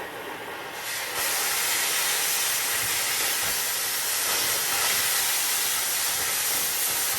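Oxy-fuel cutting torch hissing steadily as its oxygen jet blows through steel, starting sharply about a second in.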